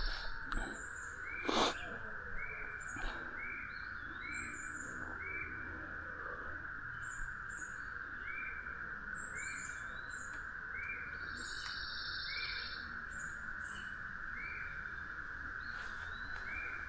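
Birds calling over a steady high-pitched drone: a short chirp repeats about once a second, with a buzzy trill twice, once just before the start and once about 11 seconds in.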